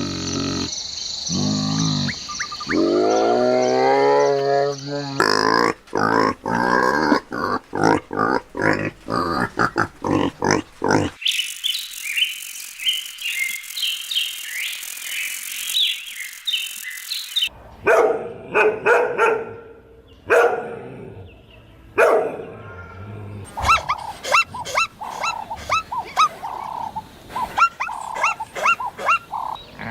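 A run of different farm animal calls, cut together as separate short clips. Pitched calls come first, then quick repeated calls, then a stretch of high-pitched chirping only about a third of the way in, then more calls.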